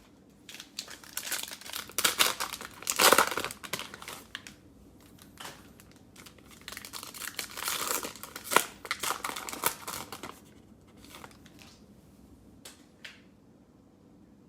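Cellophane wrapper of a trading-card pack crinkling and tearing as it is opened by hand, in two spells of rustling a few seconds apart.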